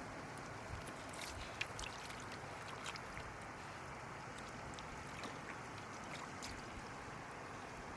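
Shallow floodwater sloshing and trickling, with scattered small splashes and clicks throughout.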